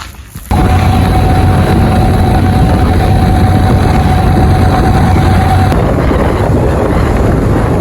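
Loud steady running noise of a moving vehicle's engine and road, cutting in abruptly about half a second in, with a steady whine over it that stops about three-quarters of the way through.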